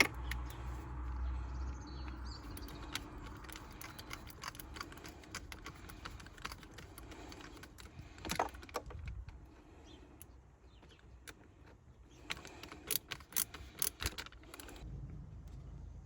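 Scattered light clicks, knocks and rattles of hand work on parts, with a quick run of sharper clicks about thirteen to fourteen seconds in.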